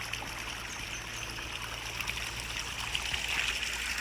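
Water trickling steadily as irrigation water runs into a flooded rice paddy, growing a little louder near the end.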